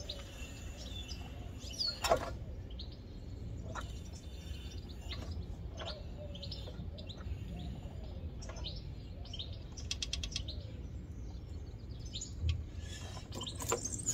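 Birds chirping over a low steady background rumble, with a sharp click about two seconds in and a quick run of clicks about ten seconds in.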